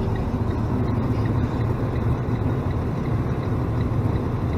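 Plow truck's diesel engine running steadily, a low even hum heard from inside the cab.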